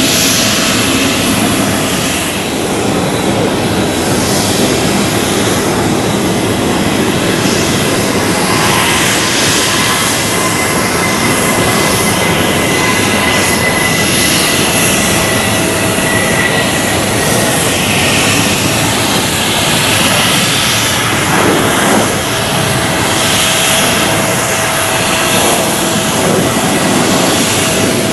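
Jet airliner engines running loud and steady, a dense roar with a high whine over it that slowly drops in pitch midway.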